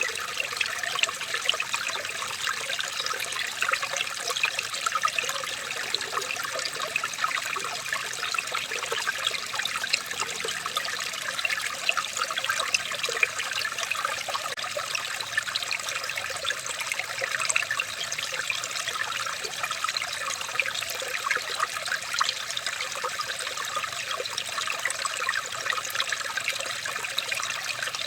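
Running water trickling and splashing steadily, with a dense patter of small, bright droplet sounds.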